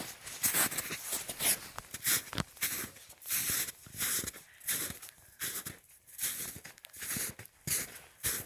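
Footsteps crunching along a wet forest trail at a steady walking pace, about two steps a second.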